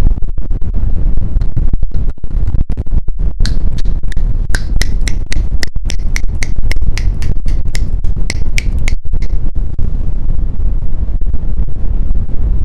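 Rode NT1 condenser microphone producing a loud, wind-like rumbling noise with no wind present, cutting out for split seconds now and then: a fault that persists after drying with a hair dryer, with moisture in the capsule suspected. In the middle, a run of short, high ticks comes about three times a second.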